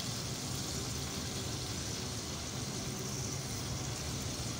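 Onions, tomatoes and spices frying in oil in a steel pot on a gas stove: a steady, even sizzle over a low hum.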